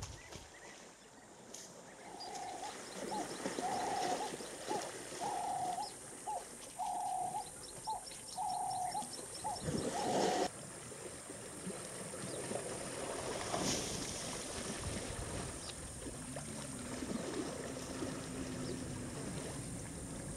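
A bird calling over and over, steady-pitched notes in an alternating long–short pattern, about a dozen of them, stopping about halfway through. After that only a noisy outdoor background with a faint low hum.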